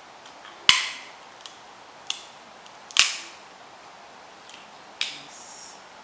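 Snow crab leg shells cracking and snapping apart by hand, close up. Two loud sharp cracks come about a second in and about three seconds in, with smaller clicks and snaps between them.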